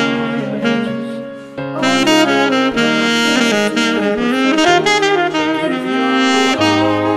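Instrumental music, jazz in style, with a saxophone playing a moving melody; it drops away briefly about a second and a half in, then picks up again.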